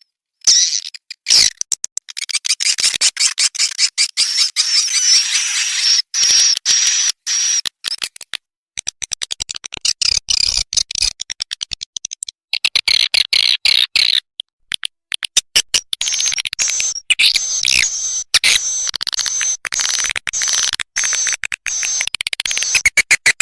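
Recorded edible-nest swiftlet calls: rapid clicking chatter and high twittering, dropping out briefly twice. It is a lure sound track played in a swiftlet house to draw swiftlets in to roost and nest.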